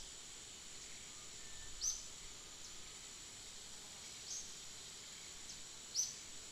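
Outdoor ambience: a steady high-pitched insect drone, with a bird's short, falling chirp repeated three times, about every two seconds.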